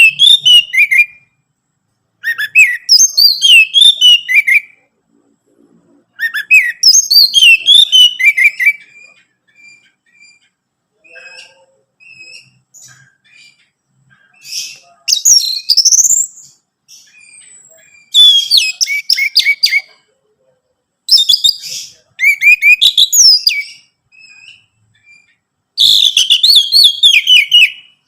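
Orange-headed thrush singing: loud phrases of rapid, varied notes about two seconds long, repeated every few seconds with short pauses. Midway there is a quieter stretch of soft single notes.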